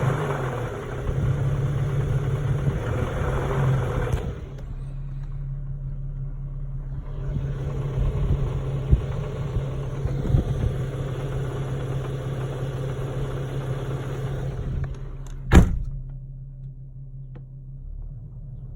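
2011 Infiniti G37x's 3.7-litre V6 running in park with a rattle the owner cannot trace, heard at idle and when the gas pedal is pressed; it runs louder for the first few seconds, eases off, and builds again before settling. A single sharp thump comes near the end.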